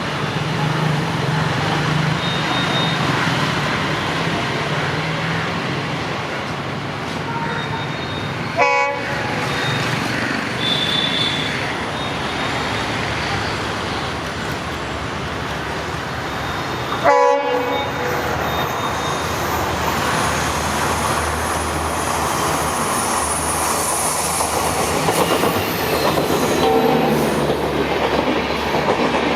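Rajdhani Express passenger train hauled by a WDP-4D diesel locomotive, passing with a steady loud rumble of wheels on rails and a clatter over the rail joints.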